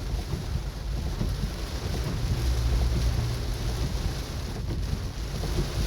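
Steady car-cabin noise while driving in heavy rain: a continuous low rumble from the engine and road under an even hiss of rain and water on the car.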